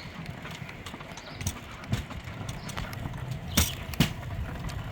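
Rail bike's wheels rolling along old railway track with a steady low rumble, and a few sharp clacks as the wheels pass over rail joints.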